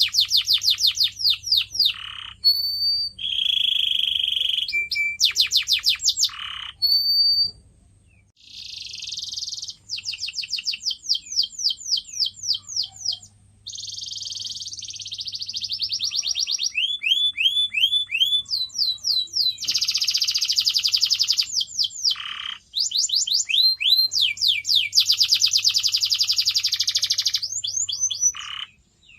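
Canary singing a long, varied song: rapid runs of repeated sweeping notes alternate with rolling trills, with the phrase changing every second or two and a few brief pauses.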